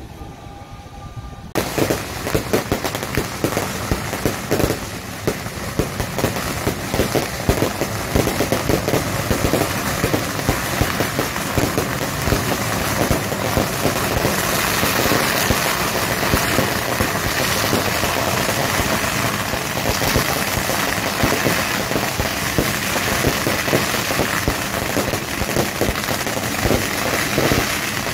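A long string of firecrackers going off in a dense, unbroken crackle, starting suddenly about a second and a half in.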